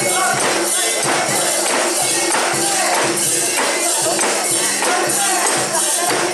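A mikoshi's metal rings and fittings jingle and clank rhythmically, about twice a second, as the bearers bounce the portable shrine, with a crowd of bearers chanting along.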